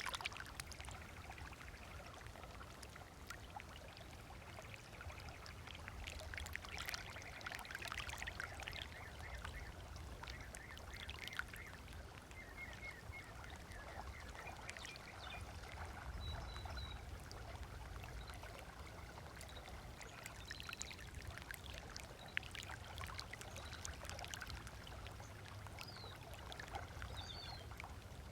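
Small waves lapping on a sandy lagoon shore: a steady faint patter of little splashes and trickles over a low rumble. Short bird chirps come in now and then, a few times.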